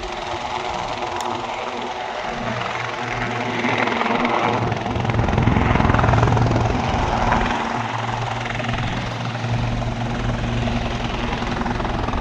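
Helicopter rotors and turbine engine running, a steady low drone with rushing noise that swells about two seconds in, is loudest around six seconds in, then holds steady.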